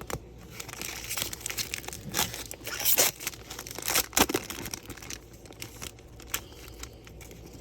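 A trading-card pack's wrapper crinkling and tearing as it is opened and handled, in irregular crackles that are busiest in the first half and thin out after.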